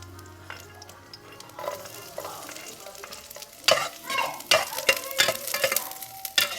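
Chopped garlic sizzling as it fries in hot oil in a pan, with a cooking utensil scraping and clacking against the pan as it is stirred. The stirring starts about halfway through and the clacks are the loudest part.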